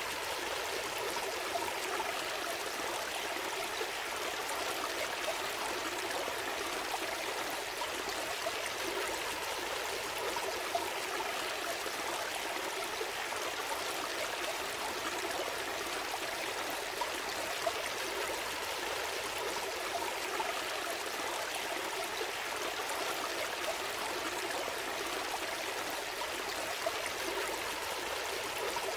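A small stream flowing steadily over stones, a continuous babbling rush with small gurgles.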